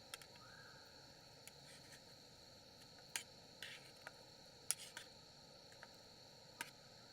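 Crickets trilling steadily in a high, thin, continuous tone, with a few sharp light clicks scattered through, the loudest about three and four and a half seconds in.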